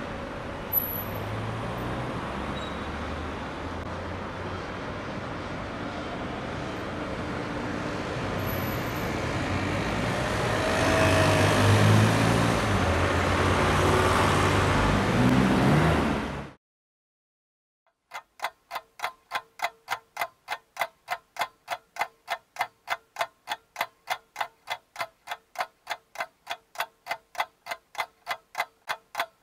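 Road traffic noise with a vehicle going by, growing louder, then cut off suddenly. After a moment of silence, a clock ticking steadily and evenly, a few ticks a second.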